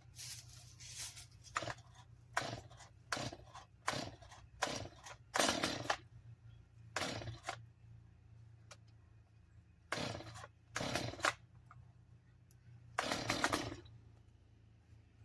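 An old two-stroke chainsaw's recoil starter cord pulled about a dozen times in quick succession, each pull a short rasping whir, without the engine catching. The saw has sat unused for two years on old gas.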